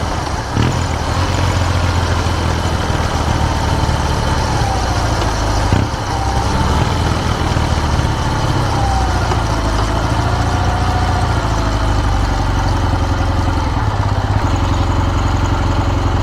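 Kawasaki W650's air-cooled parallel-twin engine running steadily through an R's Gear Wyvern Classic aftermarket muffler, a deep, low exhaust note. A faint whine rises and falls in pitch through the middle.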